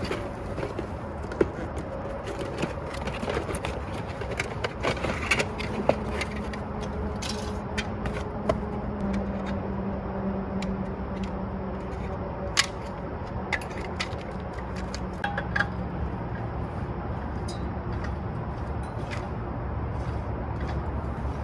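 Scattered clicks, knocks and scrapes of gear being handled, over a steady low rumble.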